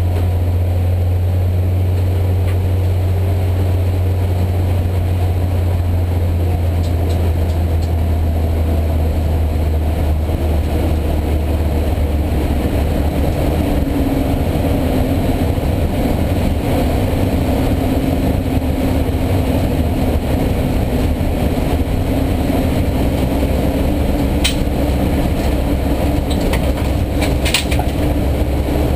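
Race car engine droning steadily inside its stripped-out, roll-caged cabin, holding a near-constant pitch that shifts a little midway. A few sharp clicks come near the end.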